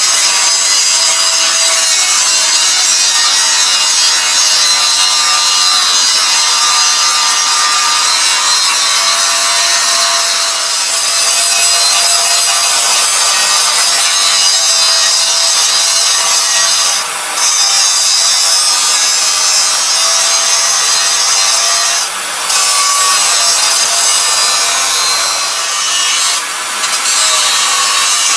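Metal lathe turning a sugarcane juicer roller bush: a loud, steady, high scraping hiss of the cutting tool on the metal, with a faint whine under it. It breaks off briefly three times in the second half.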